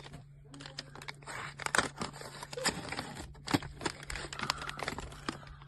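Packaging of a chocolate bar crinkling and crackling as it is handled, with many irregular crackles and clicks.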